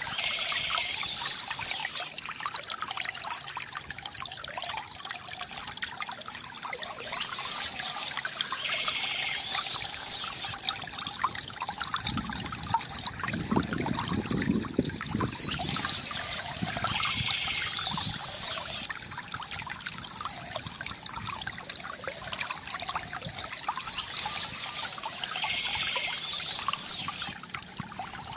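Stream water trickling and gurgling steadily, louder and fuller for a few seconds near the middle. A high bird song phrase recurs four times, about every eight seconds.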